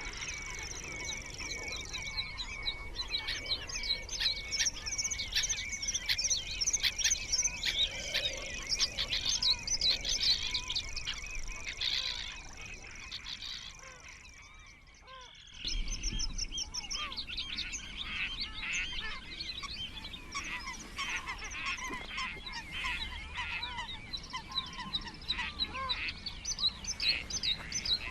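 A dense chorus of small songbirds singing and chirping over one another. The chorus drops away briefly a little past halfway, then resumes.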